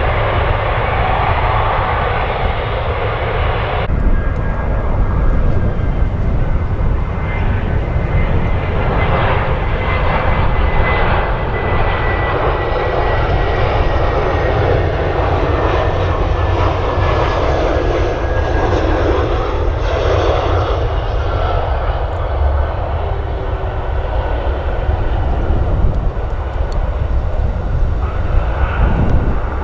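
Jet airliner engines running as the aircraft passes on the runway or overhead: a heavy rumble that swells and then fades, with a thin whine that drops slightly in pitch.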